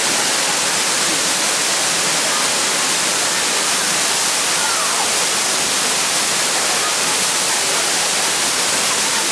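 Waterfall pouring: a loud, steady rush of falling water, a hiss strongest in the high range that never lets up.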